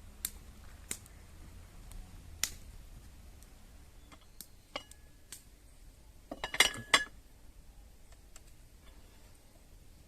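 Light clicks and clinks of cooking gear or utensils being handled, a few scattered taps, then a short burst of louder clattering with a brief metallic ring about six and a half seconds in.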